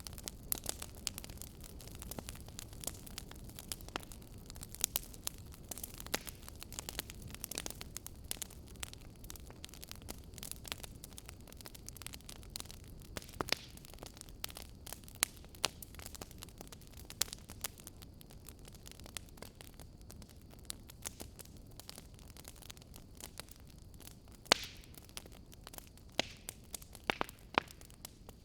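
Wood fire burning: irregular sharp crackles and pops of burning wood over a low steady rushing of the flames.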